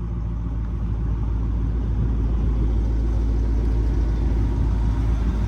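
Car engine running with a steady low exhaust rumble that grows louder over the first couple of seconds, then holds.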